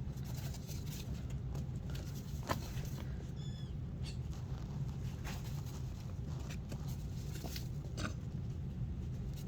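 Chinchillas moving about in a playpen: scattered light taps and scratches, with a brief high squeak about three and a half seconds in, over a steady low hum.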